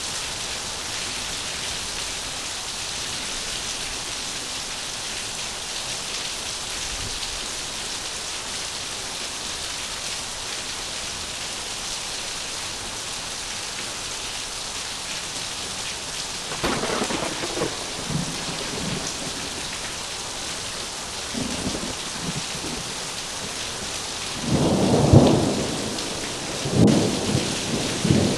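Heavy rain falling steadily; past the middle, thunder breaks in with several rolling rumbles, the loudest a few seconds before the end.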